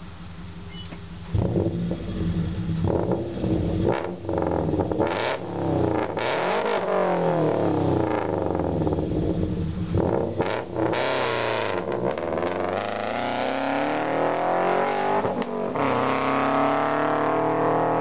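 2008 Subaru Legacy 2.5i's flat-four engine running loud through an unequal-length header, a single catalytic converter and a resonator. It idles, then the revs jump sharply about a second and a half in and rise and fall repeatedly, with a long slow climb near the end.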